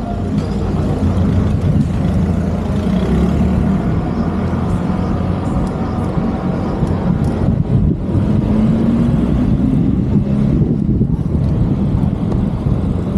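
City road traffic close by: motor vehicle engines running with a steady low rumble, one engine's pitch rising briefly about eight seconds in.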